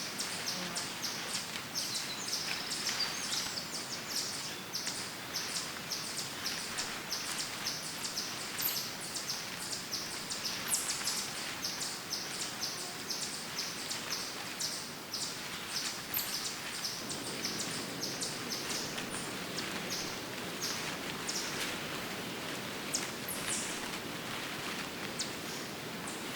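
Woodland ambience: birds chirping in rapid, repeated high notes over a steady outdoor hiss, with a rustling of leaves. A duller rustling noise joins about two-thirds of the way through.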